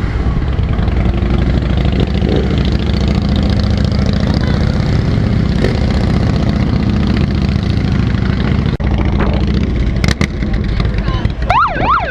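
Motorcycle engine running steadily at low revs, with a brief warbling tone rising and falling near the end.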